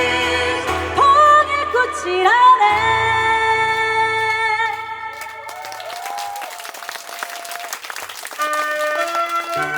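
Mixed choir with keyboard and guitar singing the closing line of a song and ending the phrase about five seconds in. Brief applause follows, and near the end a keyboard starts a new introduction with steady, bell-like notes.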